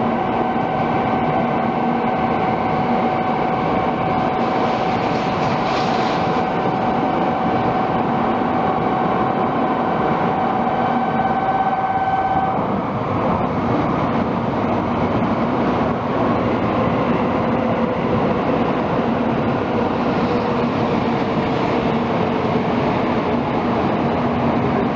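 Tokaido Shinkansen train running, a steady loud rush of rail noise with a high electric whine that stops about halfway through. In the second half a lower whine slowly falls in pitch.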